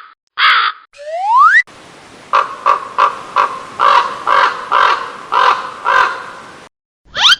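Crow cawing: two harsh caws, then a rising whistle-like glide, then a fast run of about a dozen caws, roughly three a second, over a steady hiss. A short rising glide comes near the end.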